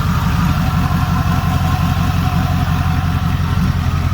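Twin-turbocharged 6.0-litre LS V8 idling steadily.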